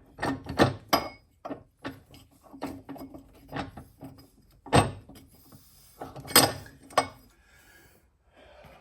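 Metal mower parts, pulleys and hardware of the blade-belt tensioner, being handled and set down: a run of irregular knocks and clicks, the loudest about five and six and a half seconds in.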